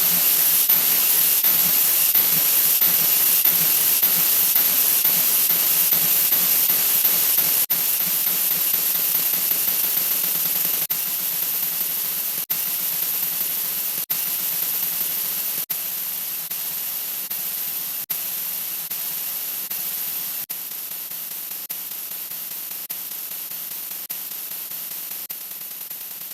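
A 'wha wha' sound effect digitally sped up so far that it has become a steady high hiss like static, with no recognisable pitch or notes. It slowly gets quieter, and brief dropouts come every couple of seconds.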